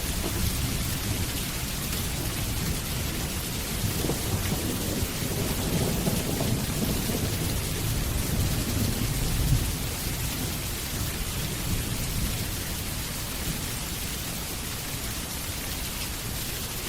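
Steady rain falling with low rolling thunder underneath; the rumble builds in the first half and eases off about ten seconds in, leaving mostly the hiss of rain.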